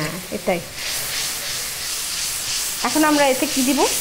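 Dried red chili, soaked in water, sizzling in hot caramelized sugar and soybean oil in a wok while a silicone spatula stirs it. A voice speaks briefly near the end.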